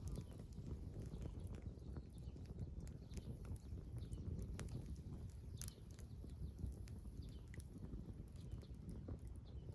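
Small campfire crackling with scattered sharp pops and snaps, while birds chirp faintly in the background.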